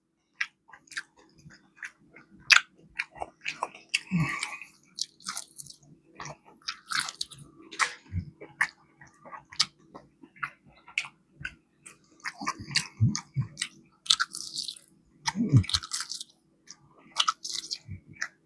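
Close-up chewing and biting of crispy fried chicken wings: irregular crunches and wet mouth clicks, with no rhythm.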